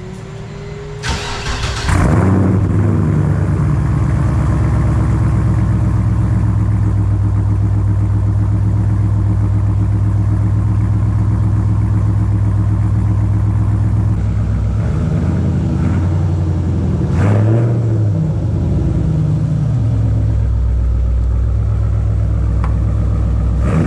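LS V8 in a BMW E46, exhausting through headers, an X-pipe and high-flow resonators, cranked on the starter and catching about a second in. It then idles steadily, loud, with a brief throttle blip about two-thirds of the way through.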